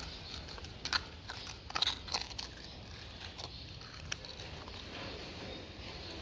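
A dog chewing and crunching food, with a few sharp crunches about a second in, around two seconds in and once more about four seconds in.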